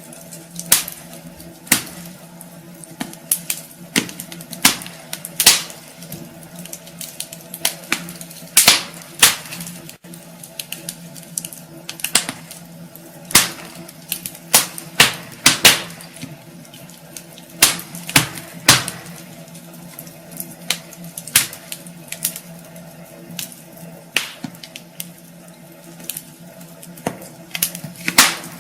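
Wood fire in a fireplace crackling, with sharp irregular pops, some louder than others, over a faint steady low hum.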